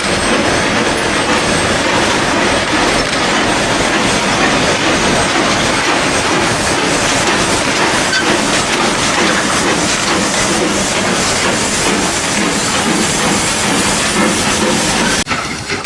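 A steam train running close by: a loud, steady rush of steam and rail noise that cuts off suddenly near the end.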